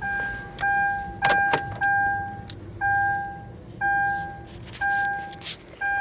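2011 Kia Sorento's door-open warning chime beeping steadily, one plain electronic tone about once a second, with keys jangling in between.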